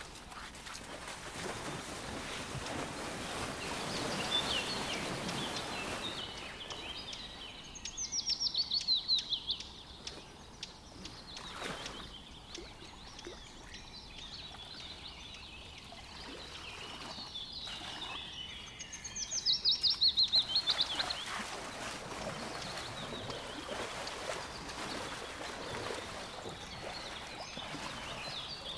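A songbird singing twice, about ten seconds apart: each phrase is a fast run of high notes, each note sliding downward, lasting about two seconds. A steady outdoor hiss runs underneath.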